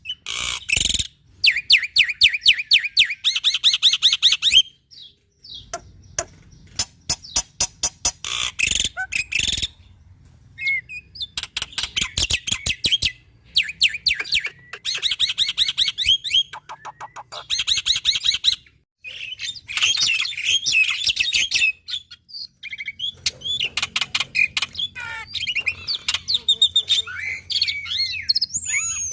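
Black-winged starling singing hard in repeated bouts of rapid clicking rattles and fast trilled whistles, with short pauses between phrases.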